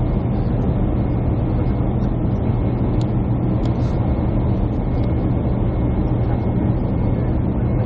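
Steady hum of a jet airliner heard inside the passenger cabin: engines and air system running evenly, with a faint click about three seconds in.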